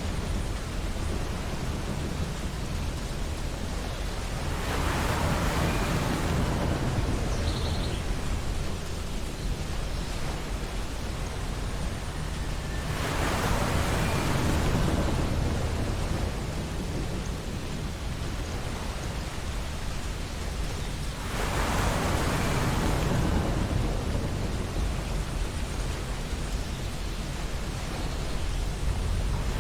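Ocean surf on a beach: a steady wash of water with three waves breaking, each swelling up and easing off, about eight seconds apart.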